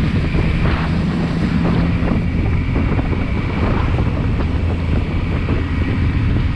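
Motorcycle engine running at a steady road speed under heavy wind noise buffeting the microphone.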